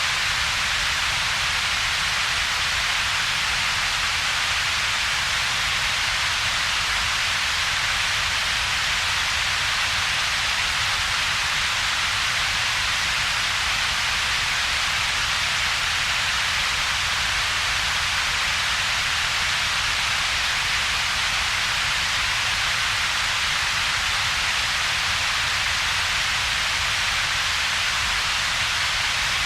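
Synthetic double-peaked noise, steady and unchanging: a hiss centred around a few kilohertz over a fainter low rumble, with a gap in between.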